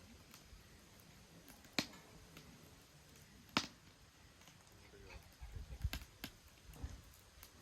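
Wood fire burning in a Solo Stove Ranger fire pit, crackling with two sharp pops about two and three and a half seconds in and a few lighter snaps later, over a low rumble near the end.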